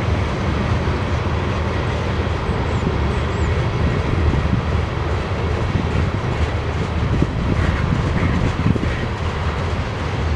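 BNSF grain train's covered hopper cars rolling past close by: a steady rumble of steel wheels on rail, with a few faint clicks toward the end.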